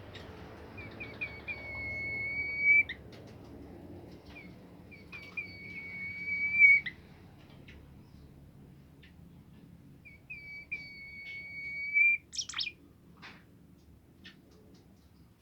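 A songbird whistling three phrases, each a few short notes running into one long, steady whistle of a second or more, with short chirps and clicks between the phrases.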